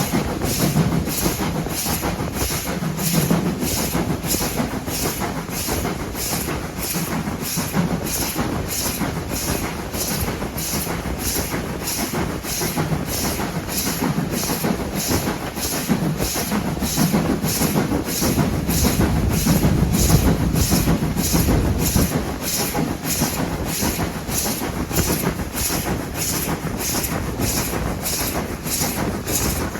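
Heritage railway train running, with an even rhythmic beat about one and a half times a second over a steady rumble that swells for a few seconds past the middle.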